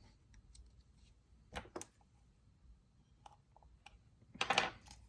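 Handling noise at a model-building bench: a few faint clicks and light knocks, then a brief rustling scrape near the end.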